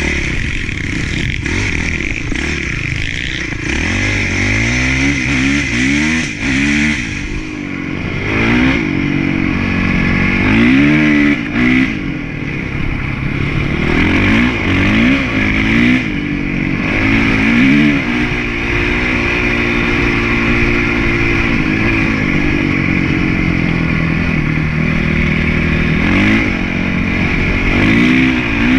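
Honda CRF450 motocross bike's single-cylinder four-stroke engine under hard riding, the revs climbing and dropping again and again with throttle and gear changes.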